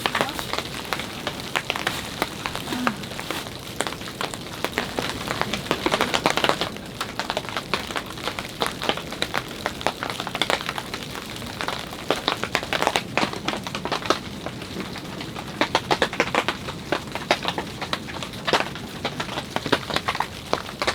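Winter rain falling steadily, with irregular sharp taps of heavy drops striking close by, coming in thicker clusters at times.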